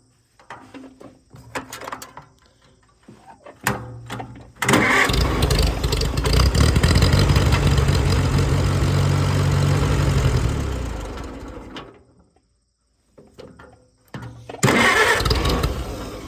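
Farmall A's four-cylinder engine cranking on the starter for about six seconds without catching, dying away, then a second short crank near the end. The owner takes the failure to start as a sign that the engine is not getting enough fuel.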